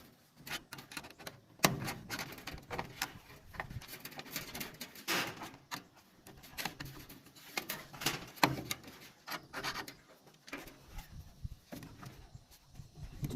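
Irregular knocks, taps and scraping of bamboo being worked by hand, with a few louder sharp knocks.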